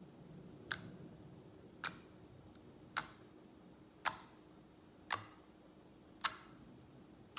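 Homemade slime being pressed and squeezed, giving a sharp pop or click about once a second, roughly six in a row, as trapped air bursts out.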